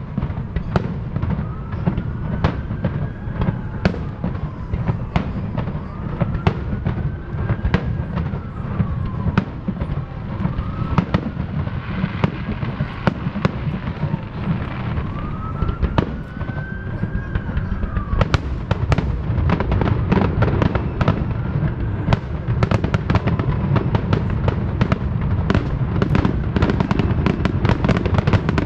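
Aerial fireworks going off: a steady run of sharp bangs over a low rumble, with rising-then-falling whistles every few seconds. The bangs come thicker and faster from about two-thirds of the way in.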